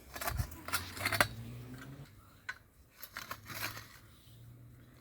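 Hand post-hole auger crunching and scraping through soil and stones in a series of short, irregular scrapes and knocks.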